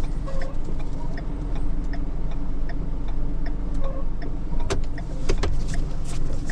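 Truck engine running steadily, heard from the cab, with the flasher relay clicking about twice a second. A few sharper clicks come near the end.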